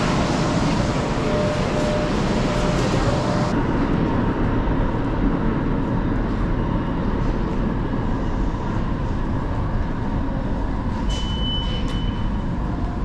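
New York City subway train running, a steady loud rumble and rush. The high end drops off about three seconds in, and a brief thin high squeal comes near the end.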